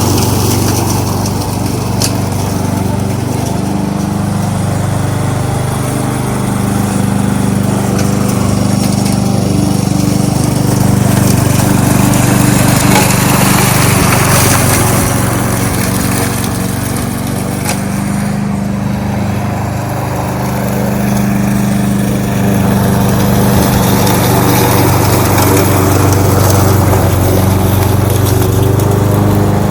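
Kohler XT-675 single-cylinder engine of a push lawn mower running steadily at working speed. Its note sags briefly a little past the middle and then recovers, as under changing load.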